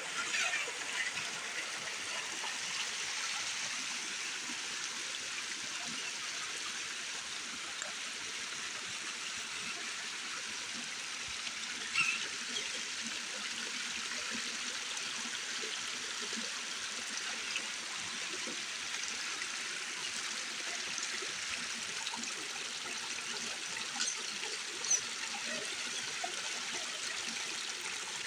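Creek water running steadily, with a few short sharp clicks, the clearest about twelve seconds in and another near the end.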